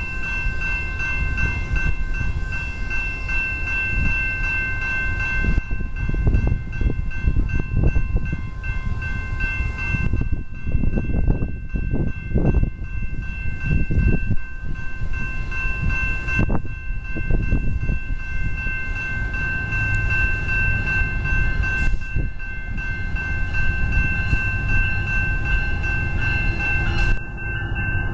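A commuter train with its locomotive and multilevel coaches running past: a heavy rumble from the wheels and rails that rises and falls. Steady high-pitched tones sound throughout.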